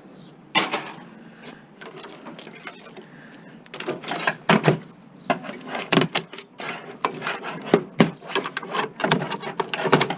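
Plastic and metal TV parts being pulled apart and handled: a sharp knock about half a second in, then, from a few seconds in, quick irregular clattering and knocking.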